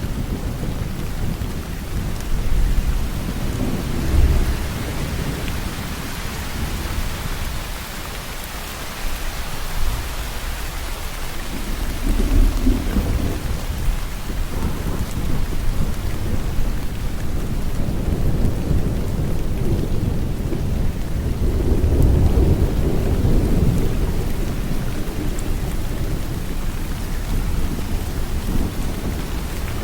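Steady heavy rainfall with low rolling thunder that swells up several times, most strongly about 12 seconds in and again from about 21 to 24 seconds.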